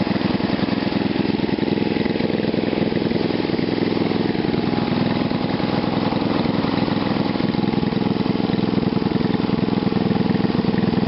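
Gasoline engine fitted with a homemade GEET-style fuel reactor, idling steadily with an even firing beat.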